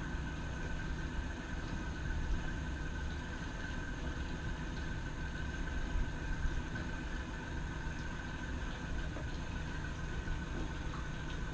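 Glass-bottom tour boat's motor running steadily, a low rumble with a constant high whine over it.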